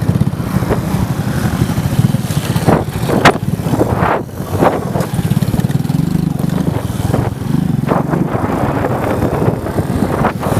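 Motorcycle engine running steadily, with several short knocks along the way.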